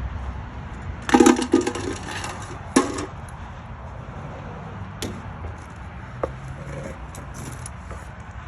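A quick run of hard clanks and clinks about a second in, one more sharp clank a moment later, then a few lighter clicks, over a steady low hum.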